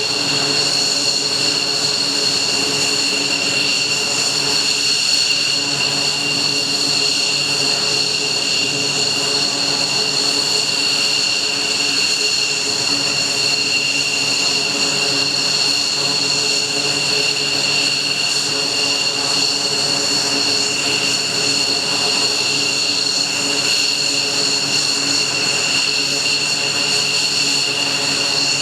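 F-15J fighter's twin F100 turbofan engines running steadily on the ground at idle: a constant high-pitched whine of several tones over a dense rushing roar.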